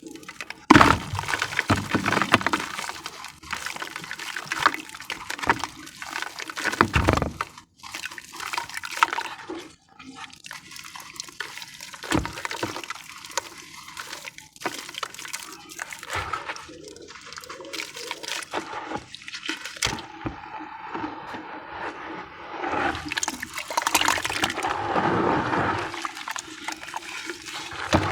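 Sand discs topped with white cement crumbling in water and being squished into a paste: wet crumbling and squishing in irregular bursts, loudest about a second in and again around seven seconds in.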